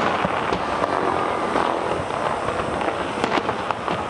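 Aerial fireworks display: shells bursting and crackling in close succession, many sharp bangs over a steady din.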